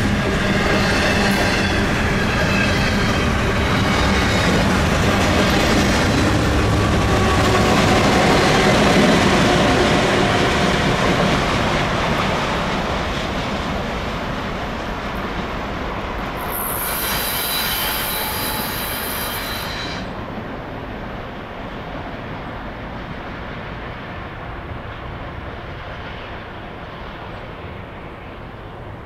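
A CN diesel locomotive hauls a double-stack intermodal freight train through a curve: a steady engine drone over rail clatter, with the wheels squealing on the curve. It grows loudest about nine seconds in, then fades away. A brief burst of high-pitched squeal comes a little past the middle.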